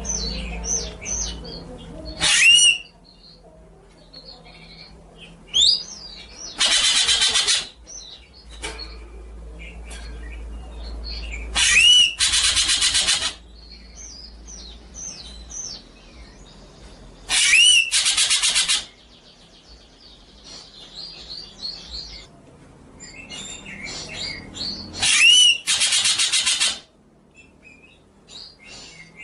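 Songbird singing a stream of quick chirps and whistles. About five times, a loud phrase breaks in: a sharp upslurred whistle, then a harsh, rapid rattle lasting about a second.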